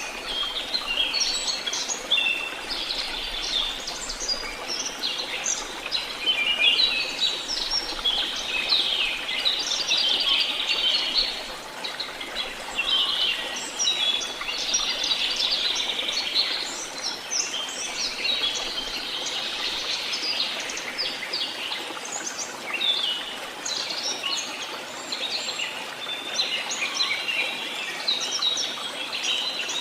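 Many birds singing and chirping together at once, a dense chorus of short overlapping calls and trills over a faint steady hiss.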